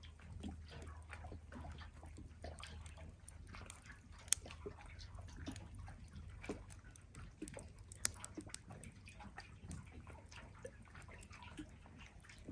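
Campfire crackling with frequent small snaps and two sharper pops, about four and eight seconds in, over the soft lapping of lake water.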